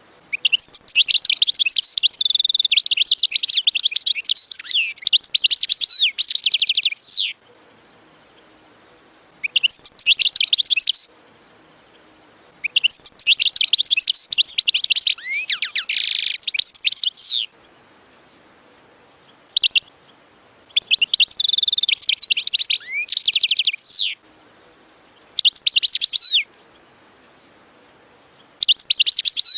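European goldfinch singing: bouts of rapid, high liquid twittering and trills, some lasting several seconds and others brief, broken by pauses of a second or two.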